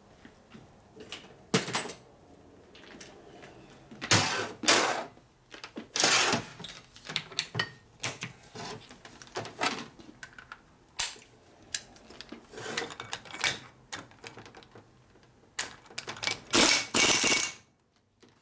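Metal engine parts and hand tools clinking and clattering at a workbench while a main nut is fitted to a flywheel shaft. Irregular light clicks, with louder clatters about four and six seconds in and again near the end.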